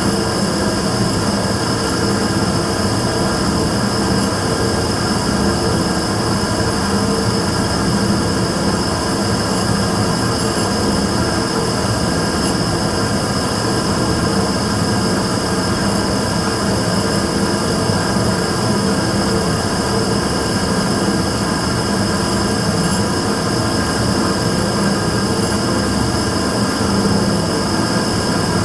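Immersion-tube burner firing steadily: a continuous rumble with a steady high-pitched tone on top, recorded as an abnormal noise from the burner.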